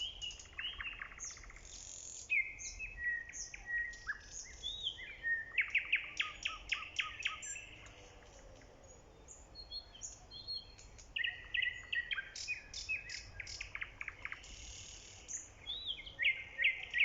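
Nightingale singing: phrases of clear whistled notes alternating with rapid trills of repeated notes, with short pauses between phrases.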